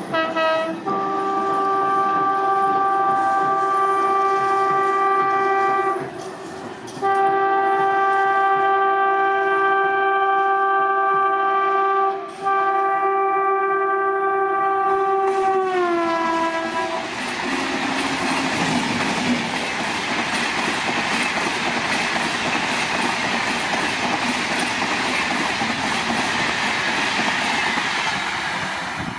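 Diesel locomotive horn sounding two long blasts of a several-note chord, the second briefly broken, its pitch dropping as the train passes at high speed. Then the passing coaches make a steady loud rush of wheel and rail noise.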